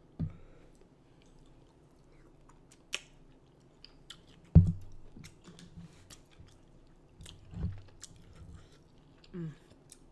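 Close-miked eating: chewing, with small wet mouth clicks and smacks. A heavy thump about four and a half seconds in is the loudest sound, and there are softer thumps later.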